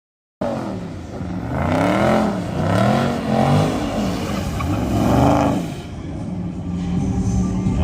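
Hemi V8 muscle car engine revving hard, its pitch rising and falling several times, the throttle blipped as a car slides. The sound starts suddenly about half a second in.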